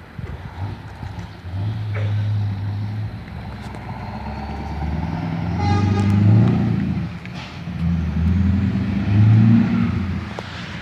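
Scania V8 diesel truck engine running under power, its note swelling and falling, loudest about six seconds in and again near nine seconds.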